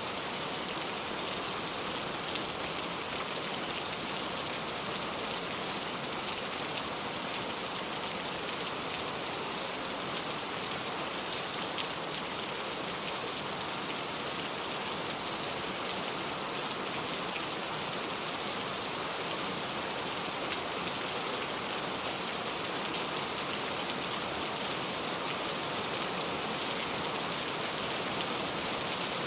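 Steady heavy rain pouring down, an even hiss with scattered small drop ticks and no let-up.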